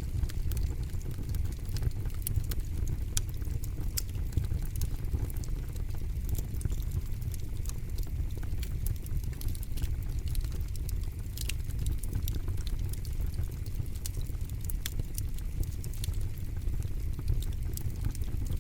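Campfire burning with a steady low rumble of flames and frequent sharp crackles and pops scattered irregularly throughout.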